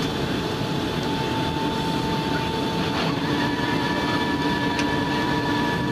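Steady cabin noise of a Boeing 757-200 on approach: the rush of engines and airflow, with a steady hum held under it.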